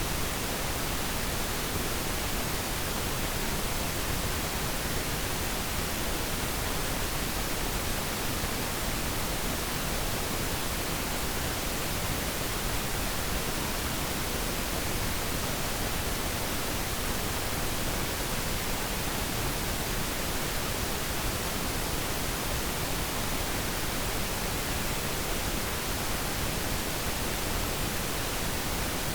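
Pure pink noise: a steady, even hiss like white noise but with less treble, unchanging throughout.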